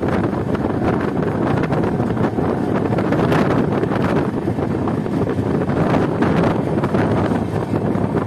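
Steady rumble of a passenger train's coaches running on the rails, heard from an open door or window, with wind buffeting the microphone.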